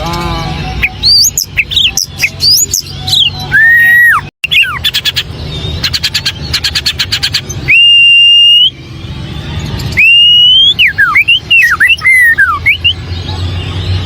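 White-rumped shama singing loudly: a varied run of clear whistles, with rapid trilled notes, long pure held whistles and quick swooping up-and-down phrases. The sound cuts out for an instant about four seconds in.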